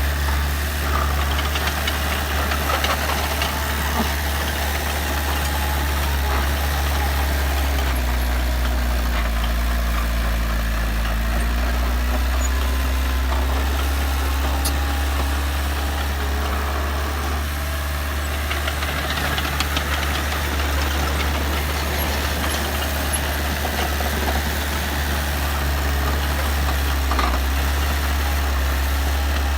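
Heavy earthmoving machine's diesel engine running steadily, its pitch sagging slightly about eight seconds in and climbing back by about twelve seconds.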